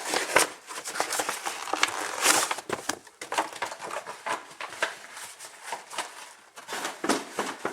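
A parcel being unpacked: cardboard and packing material handled, a dense run of quick rustles, scrapes and small knocks.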